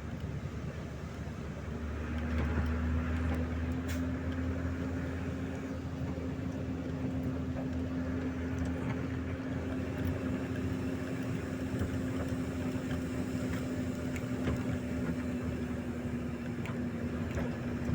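A steady motor hum with a constant low tone and rumble, growing a little louder about two seconds in and then holding even.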